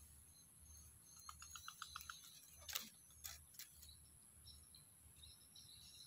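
A bird gives a quick run of about seven short chirps about a second in. A few sharp clicks follow near the middle. Otherwise near silence.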